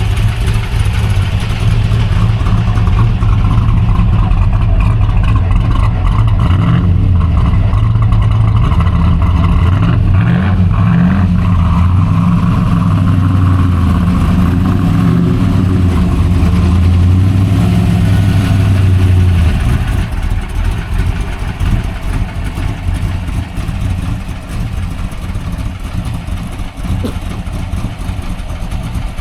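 Leyland P76 race car's V8 engine running loud and rough, revs rising and falling a few times, then settling to a lower, quieter idle about two-thirds of the way through.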